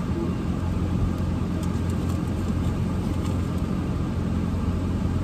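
Car engine idling, a steady low hum heard from inside the cabin, with a few faint ticks.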